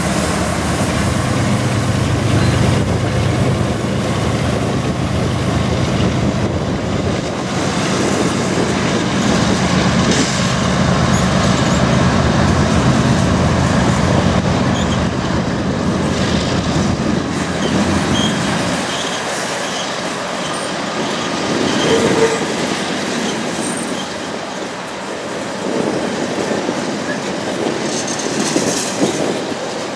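GE Evolution-series diesel locomotives (Canadian Pacific ES44AC and Union Pacific AC45CCTE) pass close by under power with a heavy engine drone. The drone fades after about eighteen seconds, leaving the rumble of freight cars rolling over the rails, with a few brief wheel squeals.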